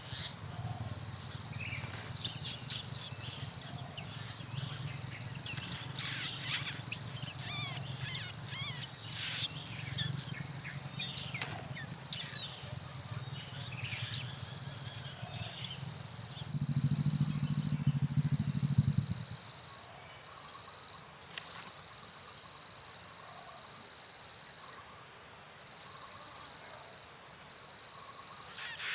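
A steady, high-pitched drone of insects (crickets or cicadas) runs without break. Scattered short chirps come through in the first half, over a low rumble that swells briefly and stops about two-thirds of the way in.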